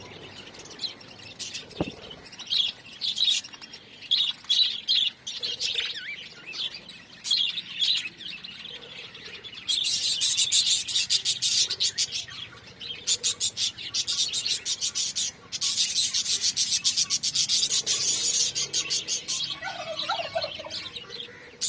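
Small pet parrots chirping, with scattered short high chirps at first. About halfway in, the chirps give way to a long, loud, rapid chatter that breaks off briefly twice.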